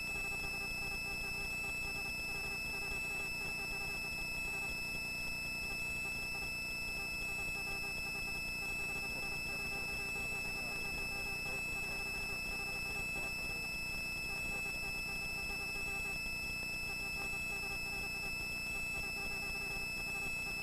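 Faint steady electronic hum and high whine tones over a low hiss, the helicopter's cabin noise as heard through the headset intercom feed.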